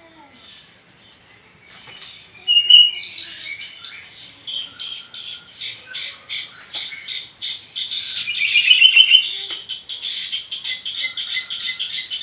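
Young long-tailed shrike practising its song: a fast, steady run of short chattering notes, about four a second, with louder sliding trills about three seconds in and again around eight to nine seconds in.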